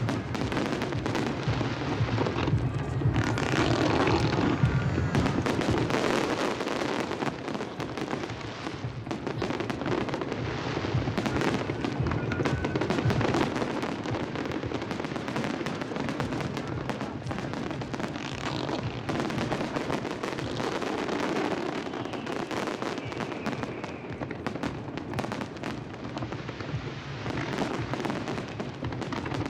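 Aerial fireworks display going off without a break: dense, rapid crackling and popping bursts with deeper booms underneath.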